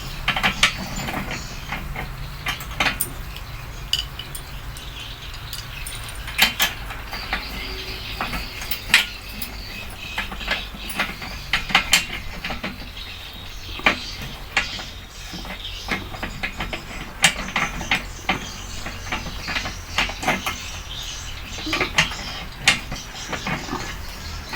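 Irregular metallic clinks and knocks, like hand tools and metal parts being handled and fitted, over a low steady hum.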